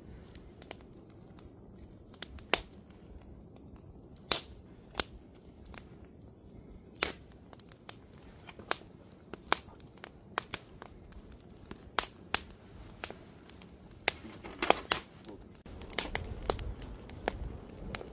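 Campfire burning, the wood crackling with irregular sharp pops over a low hiss. A low rumble of the flames rises near the end.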